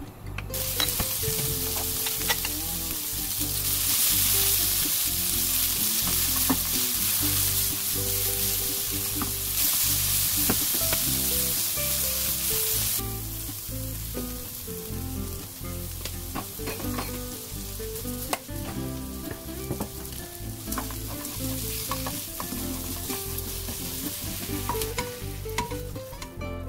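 Salted cucumber slices and minced garlic sizzling in hot oil in a non-stick wok as they are stir-fried, with the scrape and tap of stirring. The sizzle is strongest in the first half and dies down about 13 seconds in.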